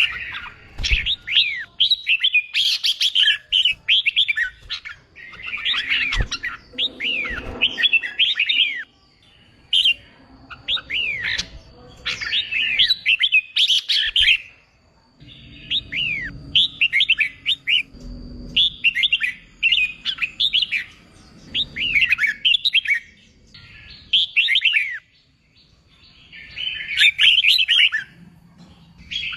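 Red-whiskered bulbul singing competition-style song: bright, rapid chirping phrases given in bursts of a second or two, with short pauses between them.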